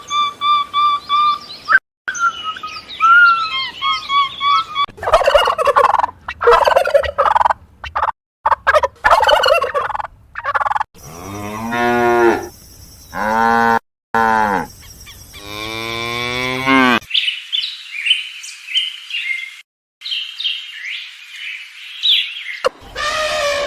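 Cattle mooing: three long moos in the middle, the last the longest. Before and after them come cuts of high chirping and squawking bird calls, most likely poultry.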